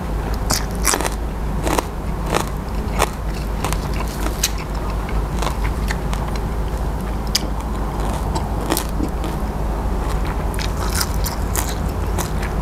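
Close-up mouth sounds of biting and chewing crisp raw vegetables: irregular sharp crunches and wet chewing, over a steady low hum.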